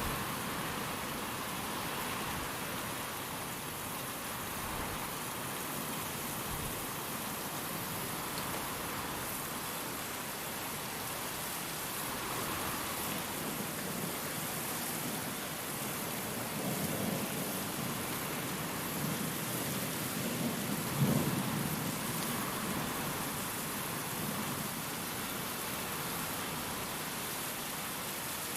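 Steady rain falling, with low rolls of thunder: a soft one about halfway through and a louder one about three-quarters of the way in.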